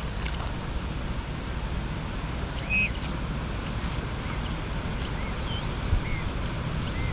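Heavy wind buffeting the microphone: a steady low rumble. Over it, a short sharp high tone about three seconds in, then several faint high warbling tones that glide up and down.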